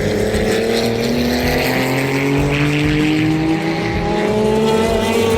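Classic endurance race car engine under hard acceleration, its pitch climbing slowly and steadily without a gear change, with a second, lower engine note holding steady beneath it.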